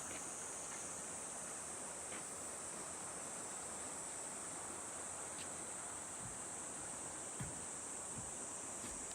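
A steady, high-pitched chorus of summer insects over the even rush of a mountain stream, with a few faint ticks.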